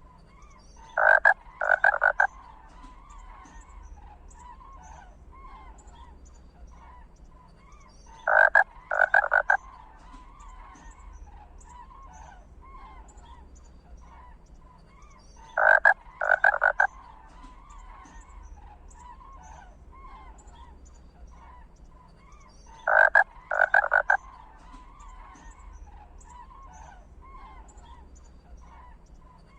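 An animal call of three short, harsh notes, loud and identical each time, repeating at even intervals about every seven seconds, four times, over faint continuous chirping.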